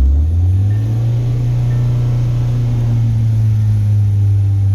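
2016 Hyundai Veloster Turbo's 1.6-litre turbocharged four-cylinder engine just after starting. Its note rises over the first second, then it runs at a steady high idle. This is the first start after GDI intake-valve cleaner has soaked in the engine.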